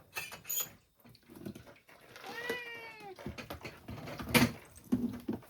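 A house cat meows once, a drawn-out meow of about a second that rises and then falls in pitch, asking for its breakfast while the food is being served. Light clicks and clatter come around it, with one sharp click about four seconds in.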